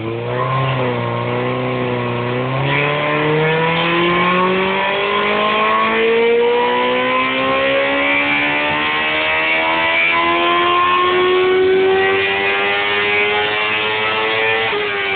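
2005 Suzuki GSX-R750's inline-four engine on a dynamometer: revs wavering at low speed for the first few seconds, then a long pull with the pitch rising steadily for about twelve seconds, and the revs falling away as the throttle closes near the end.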